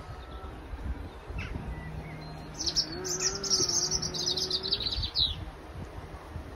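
A songbird sings one fast, high, trilled phrase of about two and a half seconds, starting about two and a half seconds in and dropping in pitch at its end. Wind buffets the microphone with a low rumble.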